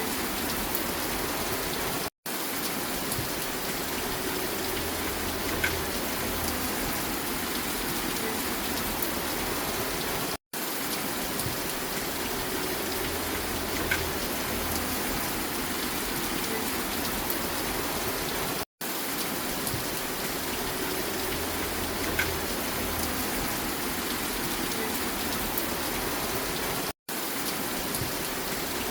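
Steady rain falling. About every eight seconds the sound cuts out for a split second: a short recording of rain looped with a gap at each seam. A faint drip repeats at the same spacing.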